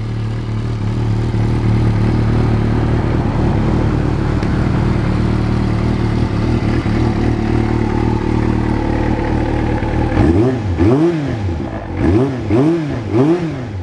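Kawasaki ZRX400-II inline-four idling steadily through a full titanium exhaust system, then revved in four or five quick throttle blips near the end, each rising and falling in pitch.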